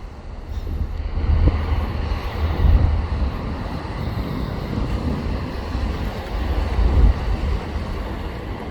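Wind buffeting the microphone: a gusty low rumble that swells and eases over a steady rush of noise.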